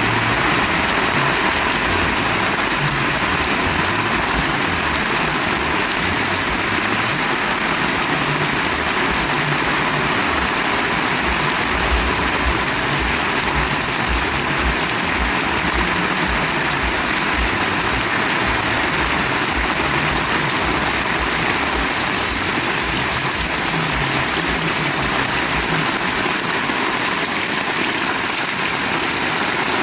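Heavy rain falling in a steady, dense hiss, with wind buffeting in irregular low rumbles.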